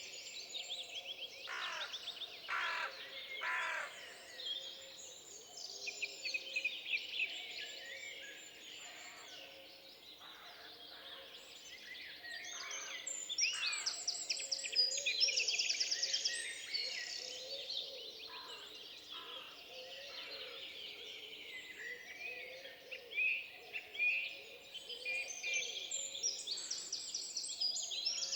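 Several songbirds singing and calling at once: overlapping chirps, trills and rapid runs of repeated notes, busiest around the middle and again near the end.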